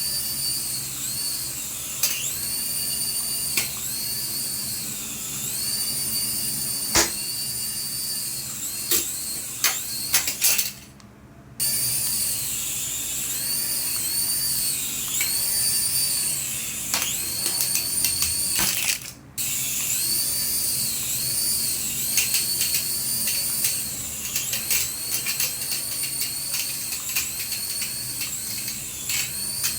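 Small electric motor of a remote-control toy running with a high whine, its pitch dipping and recovering every second or two as the speed changes, with scattered clicks. It cuts out briefly twice, about a third and about two-thirds of the way through.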